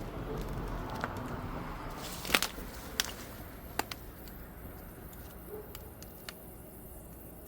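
Faint hissing and crackling from a bush over a backed-up sewer line, with a few sharp clicks in the first half. The sound is the sign of a sewer clog putting the line under pressure.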